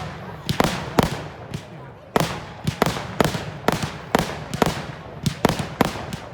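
Fireworks display: a rapid, irregular run of sharp bangs, about a dozen, roughly two a second, each fading with a short echoing tail.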